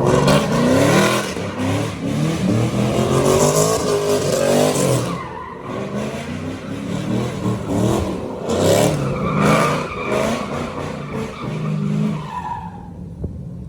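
A vehicle's engine revving up and down over and over while its tyres skid and squeal as it spins in circles (donuts), with a brief dip partway through and a fade near the end.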